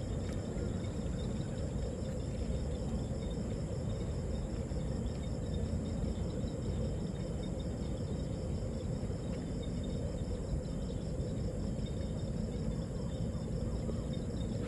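Crickets or other insects trilling steadily in a high, even pulse over a constant low rumble of background noise.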